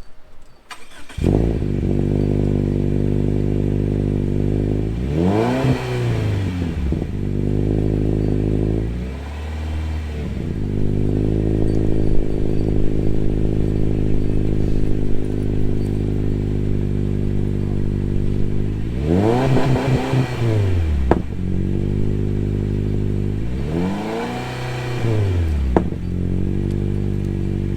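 Subaru Impreza's flat-four engine idling through a new Nameless Performance axle-back exhaust with a 5-inch muffler. It is revved up and back down to idle a few times.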